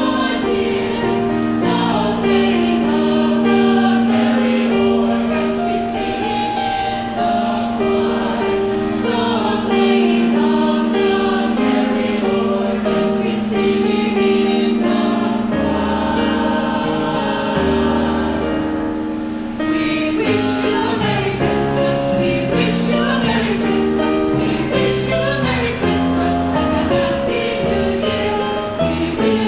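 A chamber choir singing Christmas music, with long held notes in the lower voices under moving upper parts. It continues without a break.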